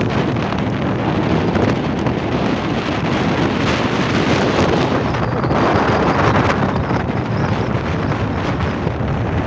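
Strong windstorm gusts buffeting the microphone, a loud steady rush of noise that swells around the middle.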